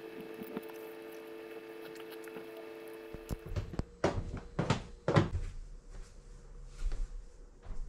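A steady hum that cuts off suddenly about three seconds in, followed by a run of knocks and clatters of household things being handled, like a cupboard being opened and shut.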